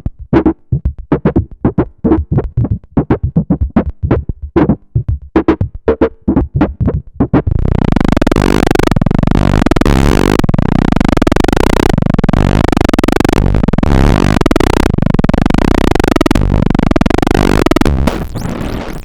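Roland SE-02 analog monosynth preset patches playing sequenced lines. First comes a fast run of short staccato notes. About seven and a half seconds in it changes to a loud, sustained, dense patch whose tone swells and brightens about every one and a half seconds, and near the end the level drops as another patch begins.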